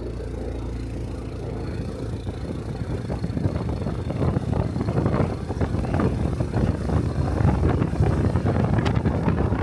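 Honda Cub's small single-cylinder engine running steadily at low speed, then getting louder as the bike pulls away, with wind noise building on the microphone.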